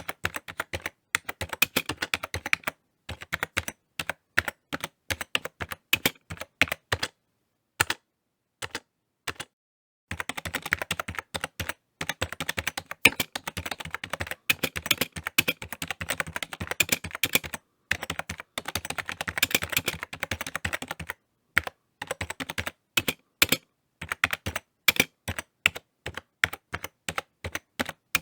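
Typing on a computer keyboard: rapid key clicks in bursts, with short pauses between runs and a longer, faster unbroken stretch in the middle.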